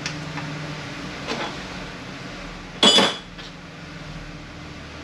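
Metal automatic-transmission parts being handled on the bench: a few light clicks, then one loud ringing metal clank about three seconds in.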